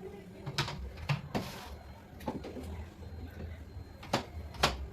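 A few sharp, separate clicks and knocks of items being handled and set down, with a short rustle about a second and a half in.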